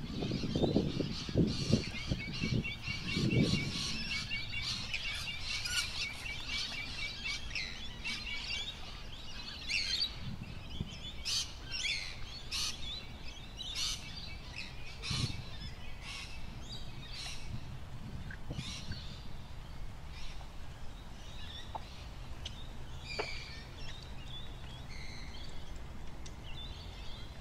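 Wild birds singing and calling: a fast, even trill for the first several seconds, then many short chirps scattered through the rest. A few low thumps come in the first few seconds.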